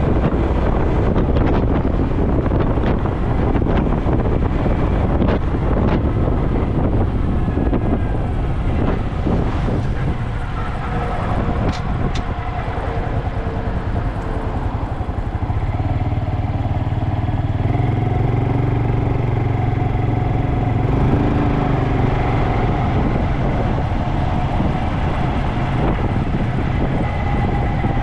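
Honda Dax125 motorcycle engine running through a Takegawa normal-look sport muffler. Heavy rushing noise covers the engine for the first ten seconds or so. After that the engine note is clearer, holding steady pitches that step up and down a few times.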